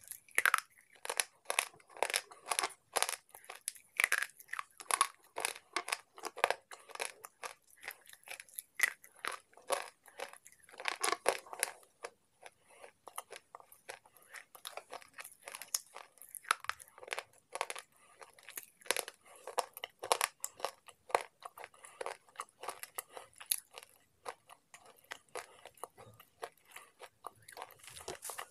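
Slate pencils being bitten and chewed: a rapid, irregular run of dry, sharp crunches and gritty chewing, thickest in the first half and sparser later.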